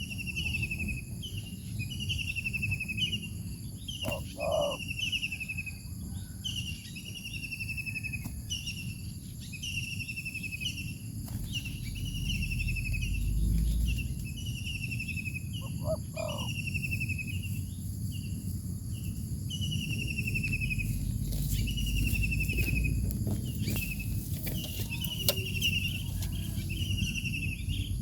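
A songbird repeating a short, falling, trilled call about once a second. A steady high insect drone runs underneath, and twice a short low double call is heard.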